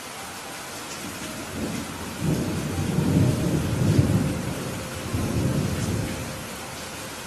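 Steady rain falling, with a roll of thunder building from about a second and a half in, loudest around three to four seconds in, then rumbling away near the end.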